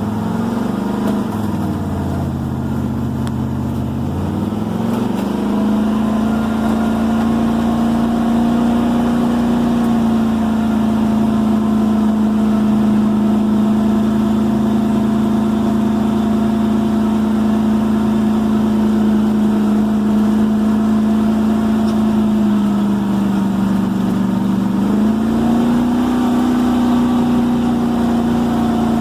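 1978 Jeep CJ-7's engine running steadily under way. Its pitch climbs about five seconds in and holds, dips briefly a few seconds before the end, then climbs back.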